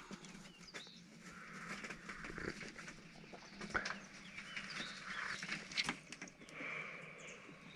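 Faint birds chirping in the morning surroundings, scattered small calls over a soft steady background hiss, with a few light clicks or knocks.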